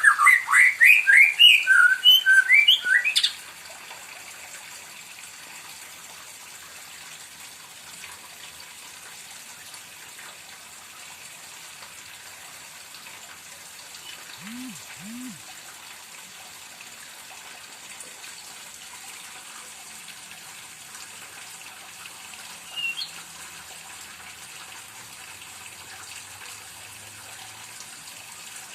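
Captive white-rumped shama (murai batu) singing a rapid burst of varied, sharply rising and falling whistled notes for about three seconds, then falling silent apart from a single short note near the end, over a steady faint hiss.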